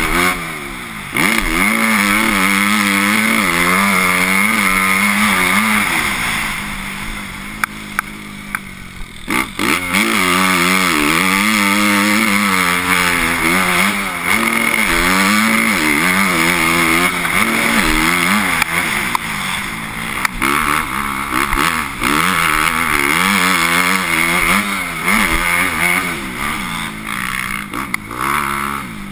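Motocross bike engine revving up and dropping back over and over as it is ridden hard around the track, the throttle opening and closing through the gears. A few sharp knocks come partway through, along with a brief dip.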